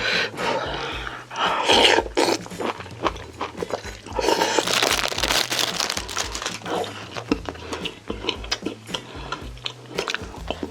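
Close-miked eating: crunchy chewing and biting of food, with many short clicks and a longer noisy stretch about four to six seconds in.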